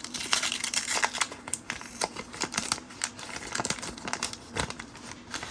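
Hands handling trading cards and a crinkly pack wrapper: irregular crinkling and rustling with many small clicks of card against card.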